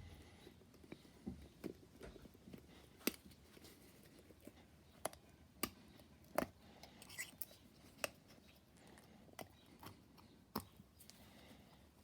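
Sparse, irregular light clicks and taps of hand tools and parts being handled, a few sharper than the rest.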